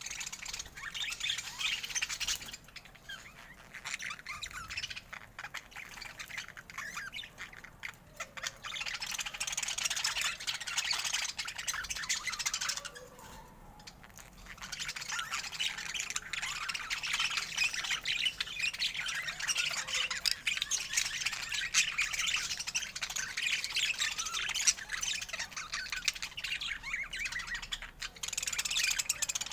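Budgerigars chattering and warbling, a dense stream of quick chirps and squawks with a short lull about halfway through.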